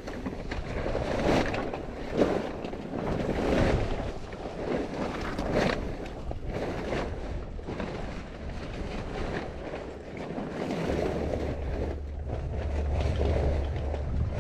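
Wind buffeting the microphone aboard a sailboat, gusting irregularly, with water noise under it. A steady low rumble comes in about eleven seconds in.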